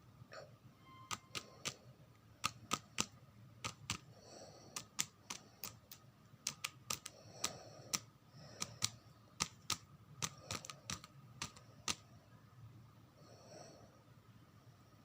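Pet bird tapping and clicking, sharp irregular taps about one to three a second, with a few soft high chirps.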